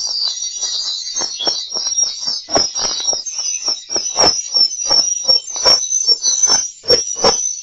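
Swiftlet lure recording: continuous high twittering of swiftlets with a run of sharp clicks, several a second, the kind of call and roost sound played in swiftlet houses to draw birds in.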